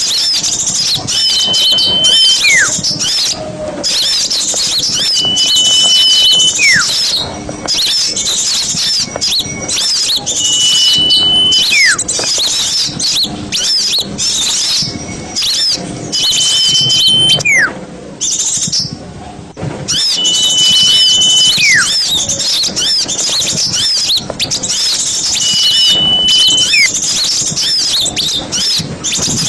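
A crowd of small birds chattering and twittering noisily and without a break, a lure recording for attracting forest birds. A clear whistle, held on one note for about a second and then dropping steeply, comes in about every five seconds, six times.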